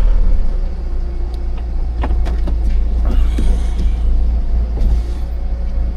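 Recovery truck's engine running at low speed, a steady low rumble heard from inside the cab, with a few faint clicks.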